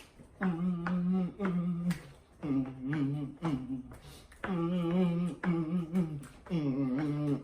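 A man humming with his mouth closed in short "mm-mm" pairs, about seven level-pitched hums, the sound of someone enjoying the food he is eating.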